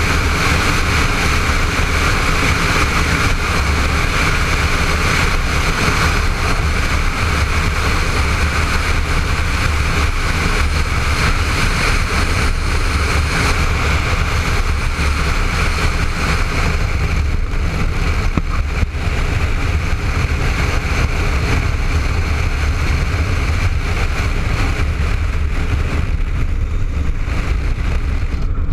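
Honda ST1300 motorcycle under way, its V4 engine running steadily with rushing air, as heard from a helmet-mounted camera.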